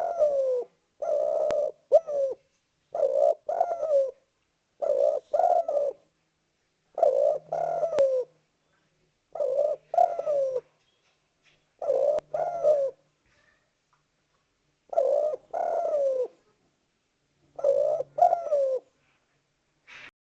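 Spotted dove (derkuku) cooing in repeated phrases about every two seconds. Each phrase is two or three coo notes, the last one sliding down in pitch. This is the bird's territorial call to rival doves.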